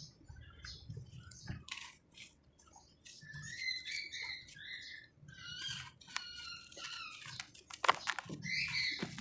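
Damp cement being crumbled, giving a run of short crunches and squeaky crackles that come thicker in the second half.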